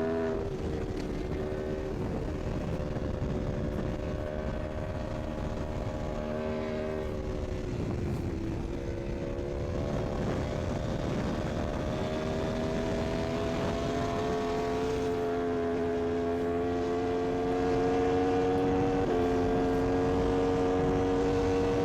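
Superbike engine running hard at high speed, with wind and road rush underneath. The engine note holds steady, sags about eight seconds in, then climbs slowly from about twelve seconds, stepping up once near the end.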